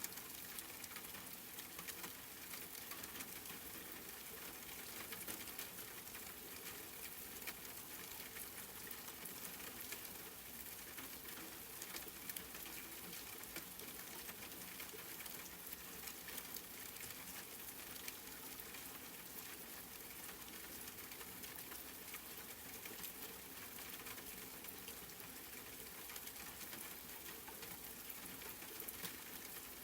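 Steady rain falling, a constant hiss with many small drop ticks pattering throughout.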